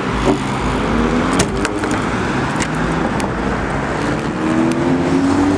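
2005 Ford Mustang GT's 4.6-litre V8 running with a loud exhaust note, its pitch rising a little in the second half.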